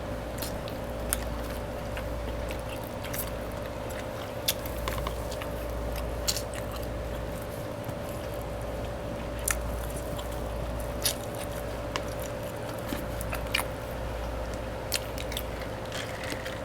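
Close-miked eating sounds: chewing and biting, with scattered sharp crunches and clicks, over a steady faint hum.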